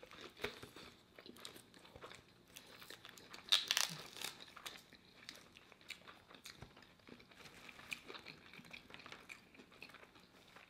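Close-miked eating: biting into and chewing a soft-bun burger sandwich, with scattered small crunches and crackles, loudest for a moment about three and a half seconds in. Light crinkling of a paper condiment packet and wrappers now and then.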